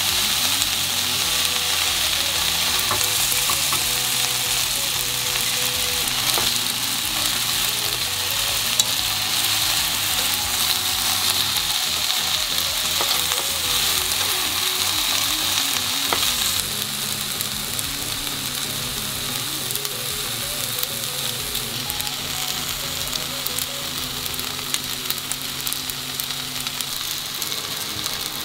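Pork, cabbage, bean sprouts and yakisoba noodles sizzling in oil in a frying pan as they are stir-fried with chopsticks, with occasional light clicks of the chopsticks against the pan. The sizzle drops a little quieter a bit over halfway through.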